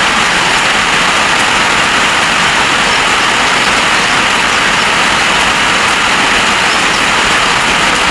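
Heavy storm rain falling: a loud, steady hiss with no letup.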